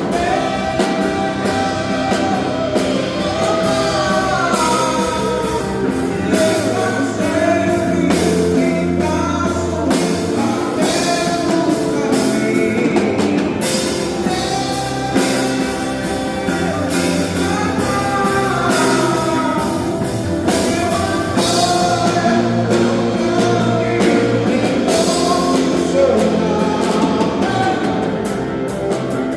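Live band playing a worship song: guitar and drum kit under a gliding melody line.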